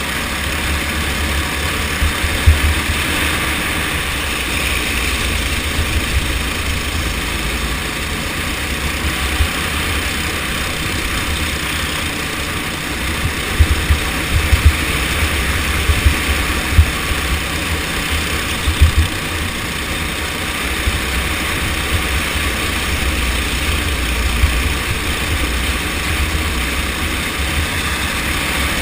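Go-kart engine running steadily under way in a race, with heavy low rumble and a few sharp thumps scattered through.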